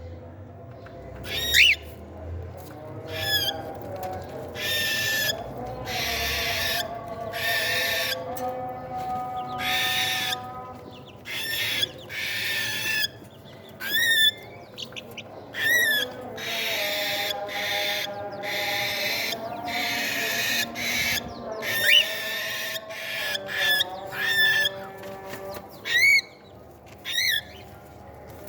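Cockatiel chicks calling at feeding time: raspy begging calls about a second long, repeated again and again, mixed with short, sharp, rising chirps.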